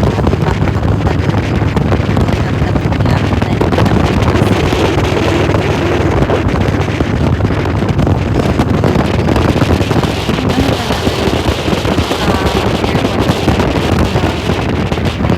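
Motorcycle running at speed, with steady wind noise on the microphone.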